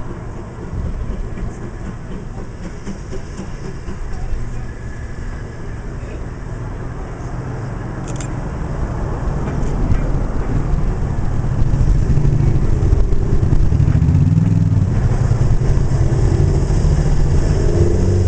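Diesel train engine running, growing steadily louder through the second half, with a deep, steady engine note coming through clearly near the end.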